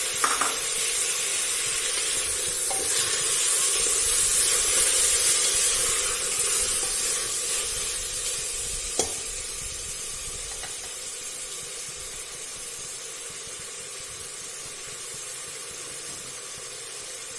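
Chopped tomatoes sizzling and being stirred in hot ghee and oil with fried onions in a pan. The sizzle is loudest in the first six seconds or so and then eases off, with one sharp tap about nine seconds in.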